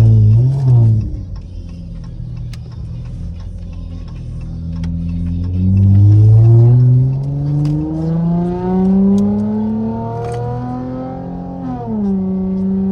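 Straight-piped 3.6-litre V6 of a Dodge Charger SXT: a quick rev at the start, then a lower steady drone, then hard acceleration from about five seconds in, the pitch climbing steadily for several seconds before dropping sharply near the end as the throttle is lifted.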